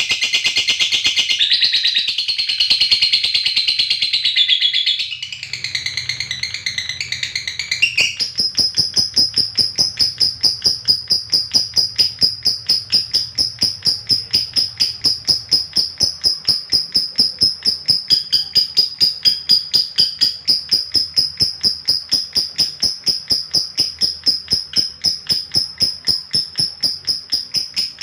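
Lovebird chattering densely, then from about eight seconds in one long unbroken trill of rapid, evenly repeated high notes held at a steady pitch: the long 'ngekek' of a lovebird in full song.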